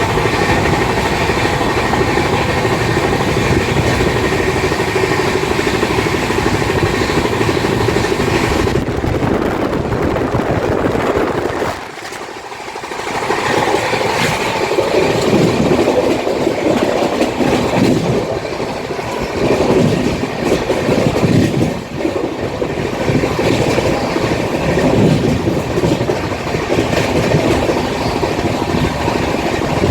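Mahabodhi Express passenger train running along the track, a continuous loud rumble with some wheel clatter. The sound changes about nine seconds in and dips briefly a few seconds later.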